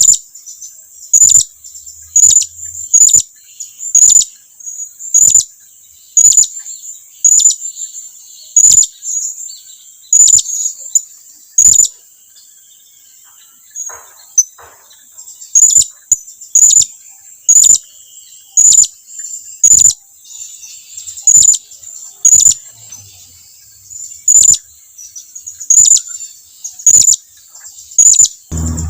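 Blue-crowned hanging parrot (serindit) giving short, sharp, high-pitched contact calls about once a second, with a pause of a few seconds midway. These are calls to draw other serindits closer.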